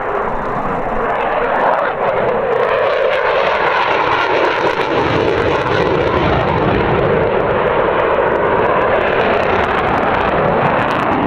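Eurofighter Typhoon's twin EJ200 turbofan engines, loud and steady as the jet flies its display, with a deeper rumble building about halfway through.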